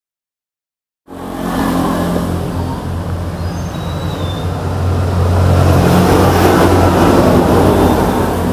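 Motor vehicle on the move: a steady low engine hum with road and wind noise, starting suddenly about a second in after a moment of silence.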